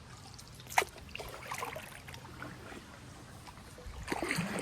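Kayak paddle dipping and splashing in shallow river water, in irregular strokes, with one sharper splash about a second in.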